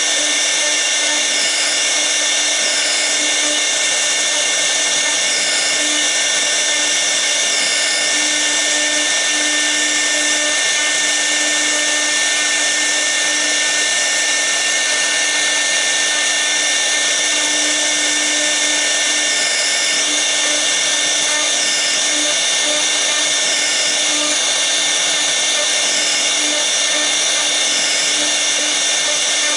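The 6 kW air-cooled spindle of a CNC router runs with a steady high-pitched whine while a V-bit carves a toolpath. The high hiss wavers slightly every second or two.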